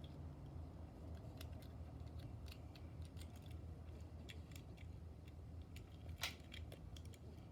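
Light clicks and crinkles of a carded diecast toy car's plastic packaging being handled, with one sharper click about six seconds in, over a low steady hum.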